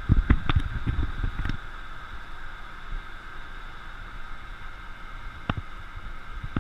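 Scania lorry running its Fassi F800 loader crane, a steady low rumble with a constant high whine. A quick cluster of sharp knocks comes in the first second and a half, and a single knock comes near the end.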